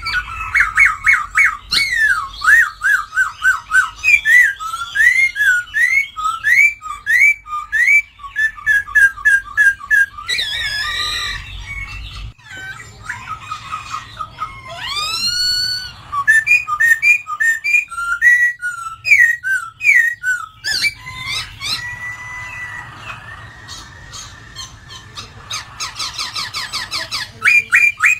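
Poksay Hongkong laughingthrush singing a long, varied song of loud whistled phrases: fast runs of repeated notes, rising and falling glides, and a briefly held tone.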